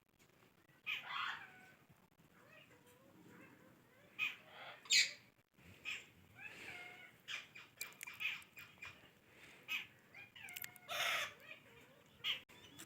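Ringneck parakeet calling: a string of short, sharp squawks and chattering notes at irregular intervals, the loudest screeches about five seconds in and again near eleven seconds.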